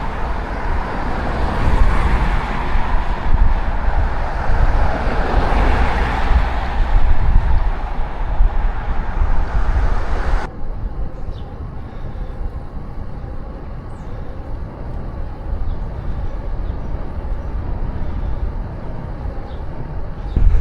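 Wind buffeting the microphone and tyre noise from a bicycle ride on a road, a steady heavy rumble with a brighter rushing sound that swells twice. About halfway through it drops suddenly to a duller, quieter rumble with a few faint ticks.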